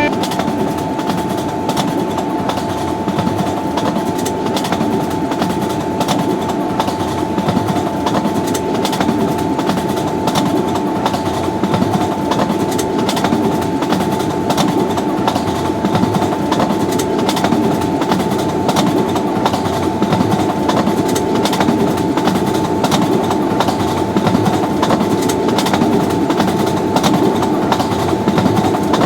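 Long train passing at speed, its wheels clattering over the rail joints in a dense, steady run of clicks over a continuous rush of noise, with a faint steady tone underneath.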